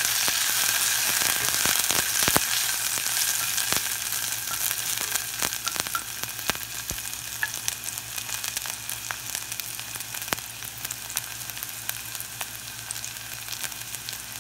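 Sliced onion and garlic sizzling in hot avocado oil in an enamelled cast-iron pot, with scattered pops and crackles. The sizzle is strongest in the first few seconds and eases to a gentler hiss.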